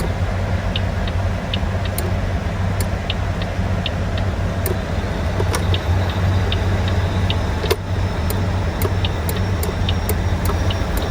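Mack Pinnacle truck's diesel engine idling steadily, with the turn-signal flasher ticking about two to three times a second as the newly replaced turn signal switch is tested.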